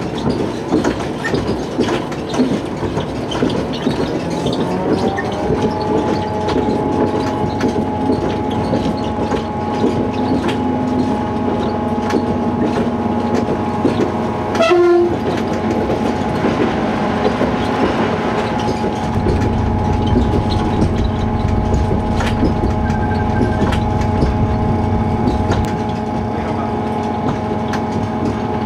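Diesel train running along the line, with a steady pitched engine and transmission note that rises and then levels off about five seconds in, and frequent clicks of the wheels over rail joints. A short horn blast sounds about halfway through.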